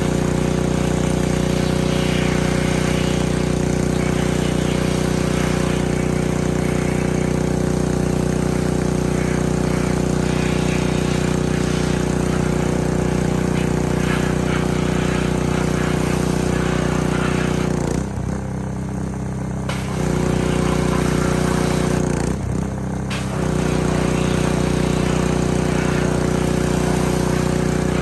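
Pressure washer running steadily at a constant pitch. Its sound drops and changes twice, for about two seconds some 18 seconds in and for about a second near the 22-second mark, then returns to its steady level.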